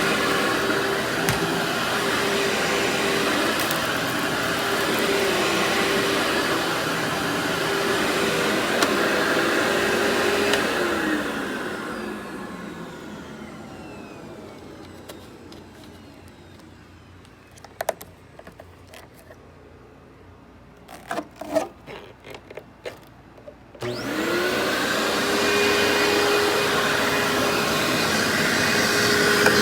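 Workhorse vacuum cleaner running steadily, then switched off about a third of the way in, its motor winding down with a falling whine. A few clicks and knocks follow in the quiet, then it is switched back on and spins up to full speed near the end.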